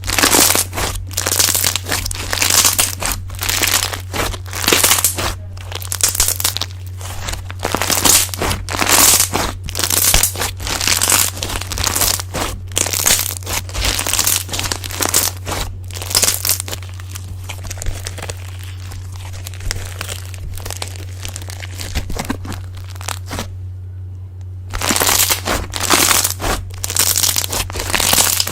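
Slime being squeezed and worked by hand, giving dense crunchy crackles and pops that come in quick clusters. The crackling eases for a few seconds in the middle, stops briefly, then picks up again near the end.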